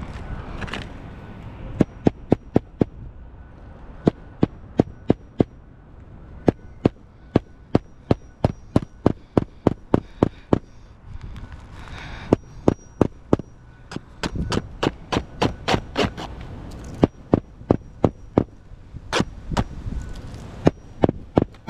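Hammer driving roofing nails through an asphalt shingle: quick runs of four to six sharp blows, one run after another, with a faint metallic ring on some strikes.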